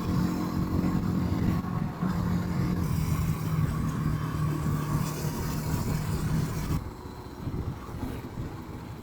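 Rieju 307 motorcycle engine running at steady revs while riding, with road and wind noise. About seven seconds in the engine tone fades and the sound drops in level, as when the throttle is eased off.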